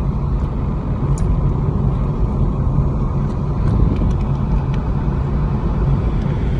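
Steady road rumble and engine noise heard from inside a moving car.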